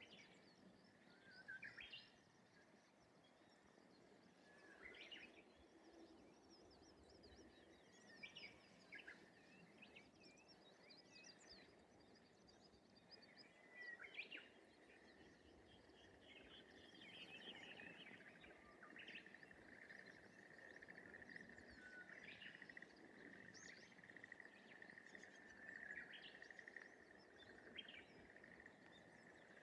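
Quiet rice-paddy ambience with scattered short bird chirps and whistles. About halfway through, a steady, rapid pulsing trill starts up and continues under the calls; it comes from an animal the recordist could not identify, bird or frog.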